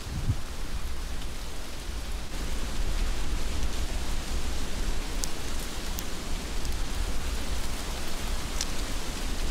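Heavy rain falling steadily, with a constant low rumble underneath. A few close drops tick sharply, twice about halfway through and once near the end.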